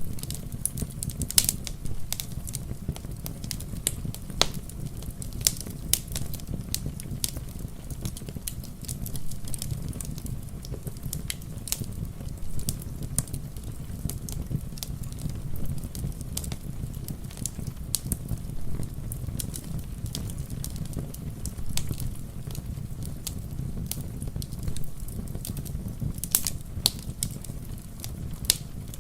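Wood fire crackling in a fireplace: irregular sharp pops and snaps over a steady low rumble, with soft rain patter.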